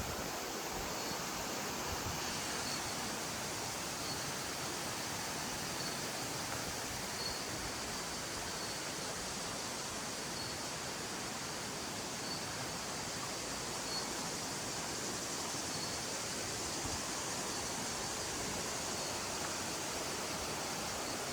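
Waterfall: an even, unbroken rush of falling water.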